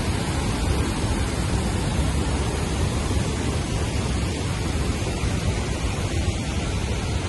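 Steady rush of water pouring over the New Athos waterfall, the 8.6 m falls of a man-made dam on the Psyrtskha river.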